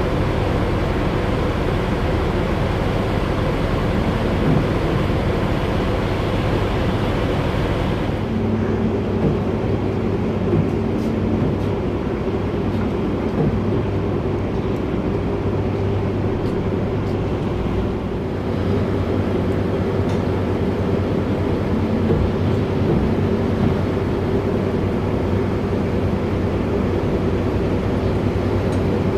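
Passenger ferry's engines running steadily under way, a low drone with a steady hum, over the rush of wind and water. The higher hiss eases about eight seconds in.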